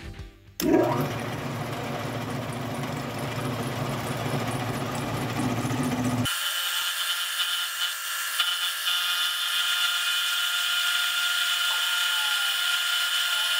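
Milling cutter running and cutting steel, a steady power-tool whine. About six seconds in the sound changes abruptly to a thinner, steadier high whine.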